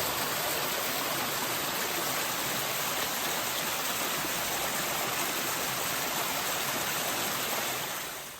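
Steady rushing of a stream's flowing water, fading out near the end.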